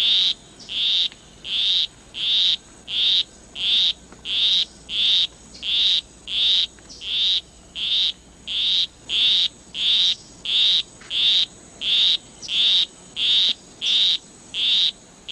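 Male poison dart frog's courtship call: a monotonous, evenly spaced series of short, high notes, a little under two a second.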